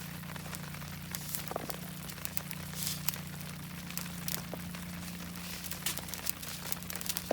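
Thin wrapping being crinkled and handled by hand, with irregular small crackles and rustles throughout, over a steady low hum.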